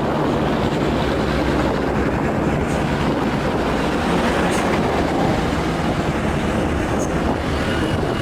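Heavy truck's diesel engine running hard under load on a hill climb: a steady loud drone with a few faint ticks.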